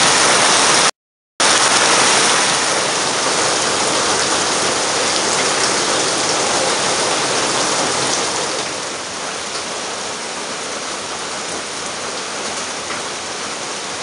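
Heavy tropical rain falling steadily on palm leaves and jungle foliage, an even hiss. The sound cuts out completely for a moment about a second in, and the rain eases a little after about eight seconds.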